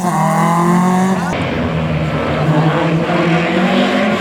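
Historic rally car's engine accelerating hard, dropping in pitch at an upshift at the start and then climbing again. About a second and a half in the sound changes abruptly to a steadier engine note with more hiss, which eases off near the end.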